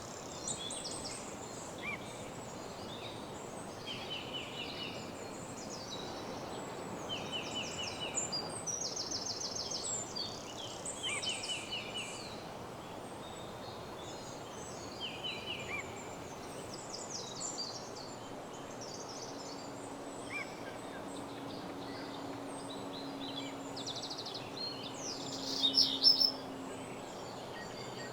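Songbirds singing in a woodland dawn chorus: short trilled phrases repeated by several birds over a steady low background hiss, with a louder burst of calls near the end. A faint steady low hum runs under the second half.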